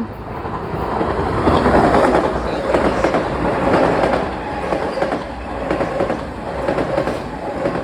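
Metro-North electric commuter train running past the platform, its wheels clacking over the rail joints, loudest about two seconds in and starting to fade near the end.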